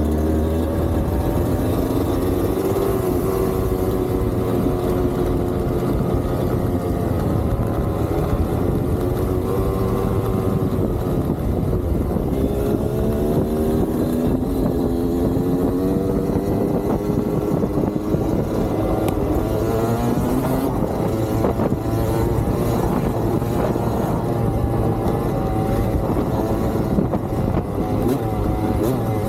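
Dirt bike engine running while riding, its pitch rising and dropping again and again as it accelerates and shifts through the gears.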